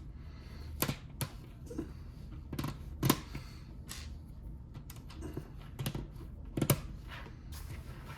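Plastic Lego bricks clicking and clattering as they are handled and snapped together: a handful of irregular sharp clicks over a low steady hum.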